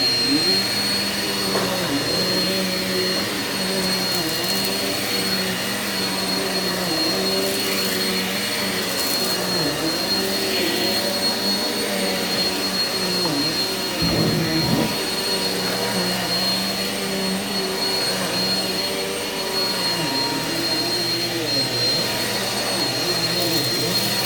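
Eureka vacuum cleaner running steadily on carpet, with a constant high whine and a lower motor note that dips briefly every couple of seconds.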